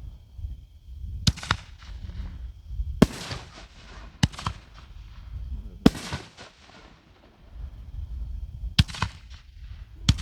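5-inch aerial canister shells going off: six sharp bangs, one to three seconds apart, a few of them trailed by smaller pops.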